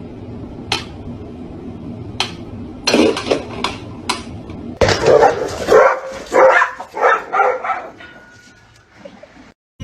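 A dog barking, a quick run of about six barks about halfway through, after a few sharp clicks or knocks.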